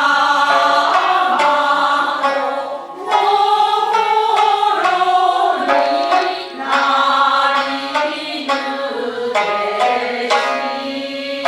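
Japanese folk song (min'yo) sung in long, wavering held notes over shamisen accompaniment, its sharp plucked notes sounding through the singing.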